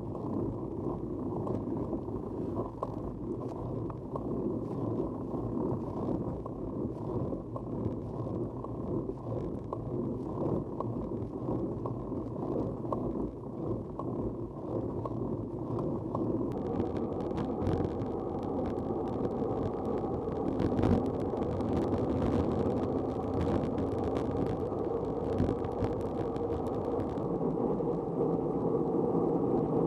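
Steady, muffled low rumble of a vehicle in motion, growing a little louder and denser about halfway through.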